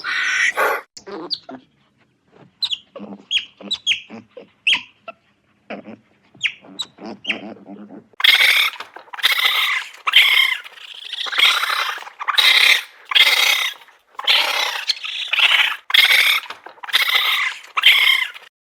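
An animal calling: scattered short squeaks and chirps, then from about eight seconds in a run of about eleven loud, harsh calls, each lasting about half a second.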